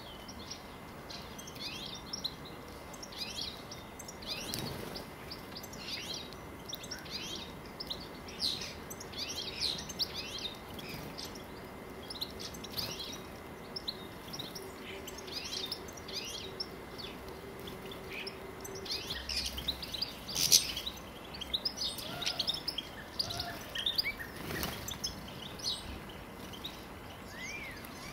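Small garden birds chirping and twittering, many short quick calls overlapping, with a loud burst of chirps about twenty seconds in. A faint steady drone sits under them through the middle.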